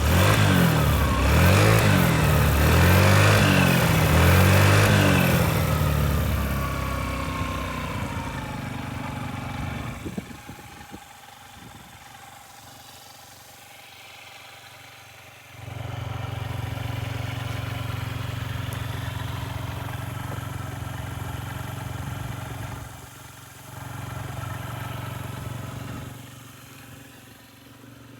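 Honda Zoomer scooter's single-cylinder four-stroke engine revved hard several times, its pitch rising and falling, then winding down to idle. About halfway through it picks up to a steady faster speed for several seconds, drops back, rises briefly once more, and settles to idle.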